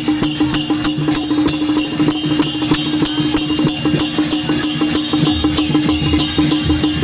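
Procession percussion music: drums and cymbals beating a fast, even rhythm of about four to five strokes a second over one steady held note.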